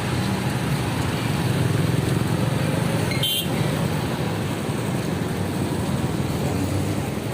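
Steady rumble of road traffic and vehicle engines, with a brief high-pitched sound about three seconds in.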